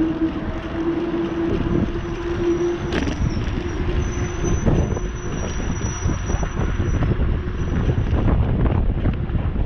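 Wind buffeting the microphone during a bicycle ride, a loud rumble with a steady low hum for the first three seconds. A sharp click comes about three seconds in, and a faint high whine runs through the middle.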